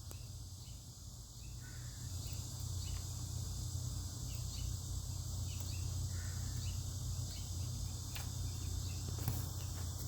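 Steady outdoor background: a faint high insect chorus over a steady low hum, with a couple of faint clicks near the end.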